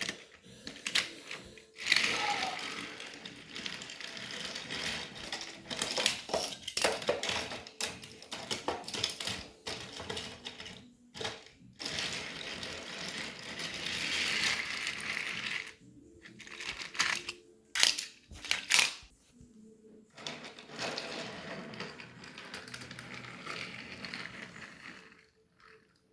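Small die-cast toy train engines rolling along toy track: a rattling clatter of wheels with sharp clicks and knocks, stopping briefly a few times.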